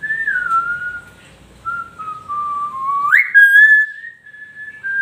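A pet talking bird whistling a string of pure, clear notes that slide downward from note to note. About three seconds in it gives a sharp upward swoop with a brief shrill squeak, then settles into a steady held whistle.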